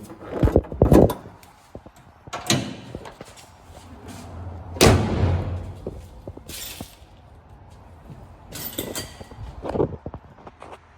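Car door being opened and slammed shut, among a series of separate knocks and thuds, the loudest about five seconds in with a short low rumble after it.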